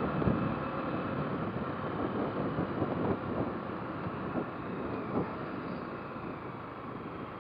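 Motorcycle running, heard from the rider's microphone as a steady mix of engine and road noise with some wind on the microphone, easing off slightly towards the end.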